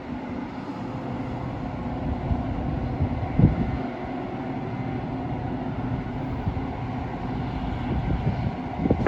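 Metra commuter train running at the station: a steady rumbling drone with a few held tones, and a single knock about three and a half seconds in.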